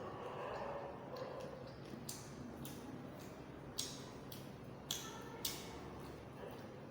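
Close-miked eating: chewing and mouth sounds, with a run of short sharp clicks, the loudest three between about four and five and a half seconds in.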